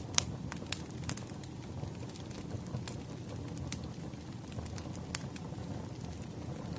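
Wood fire crackling: scattered sharp pops over a steady low rumble of burning logs, the loudest pop just after the start.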